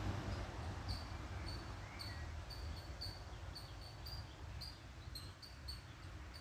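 A small bird repeating a short, high chirp about twice a second, over a low steady rumble.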